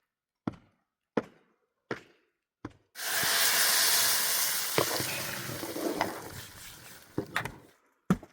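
Four sharp knocks at an even pace, then a sudden loud sizzle, as of food going into a hot pan of fat, that slowly dies away over several seconds, with a few more knocks near the end.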